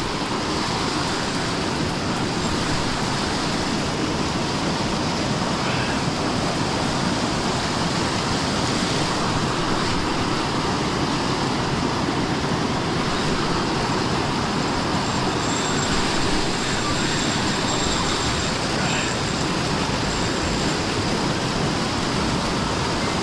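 Steady rushing of a flooded river's strong current and waterfall, an unbroken wash of water noise.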